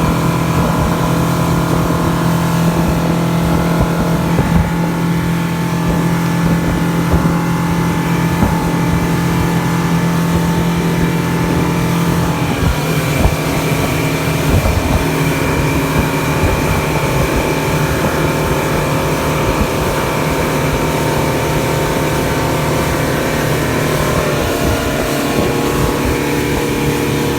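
Motorboat engine running steadily at speed, with rushing wind and water; its pitch drops slightly about halfway through.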